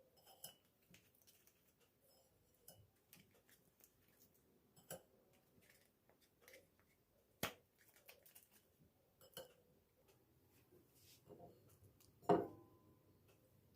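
Faint, scattered light clicks and taps of kitchenware being handled, with a sharper knock about halfway through and a louder clink near the end that rings briefly.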